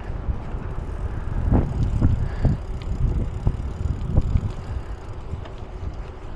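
Bicycle riding noise: a steady low rumble of tyres and wind on the microphone, with several short knocks and rattles from bumps in the middle of the stretch.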